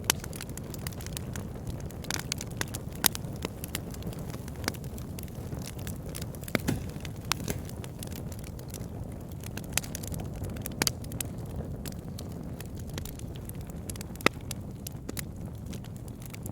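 Campfire burning, the wood crackling and popping in irregular sharp snaps over a steady low rumble, with a few louder pops.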